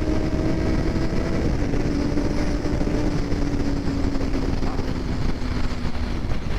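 Honda CBR650's inline-four engine and aftermarket exhaust running at a steady cruise, its pitch sinking slowly as the bike eases off, over a heavy rumble of wind on the mic.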